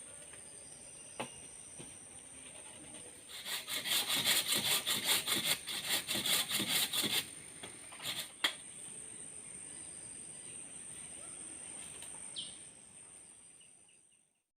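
Forest insects keep up a steady high-pitched whine throughout. From about three to seven seconds in, a louder, rapid rasping pulses several times a second, and a few sharp clicks follow before the sound fades out.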